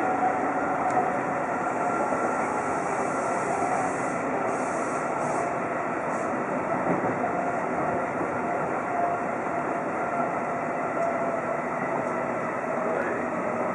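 Seibu 2000 series electric train running at speed, heard from inside the driver's cab: a steady rumble of wheels on rail with a faint whine that drifts slightly lower.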